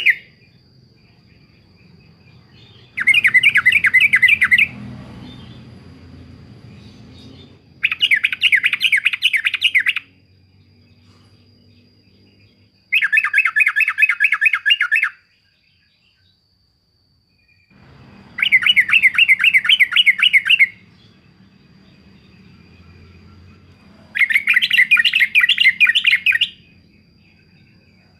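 Yellow-vented bulbul (trucukan) singing its 'uklik-uklik' song: five bursts of rapid, bubbling repeated notes, each about two seconds long, with pauses of a few seconds between them.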